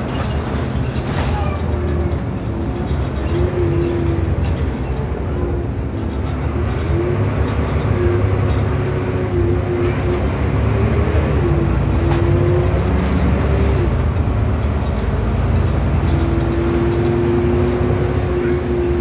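Interior of an Irisbus Agora S city bus under way: steady low engine and road rumble, with a pitched whine that comes in about two seconds in, drops out and returns several times, wavering slightly in pitch.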